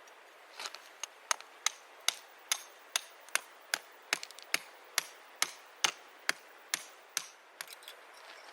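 Rapid, evenly spaced sharp knocks, a little over two a second and about seventeen in all: something being struck repeatedly with a tool. They start under a second in and stop near the end.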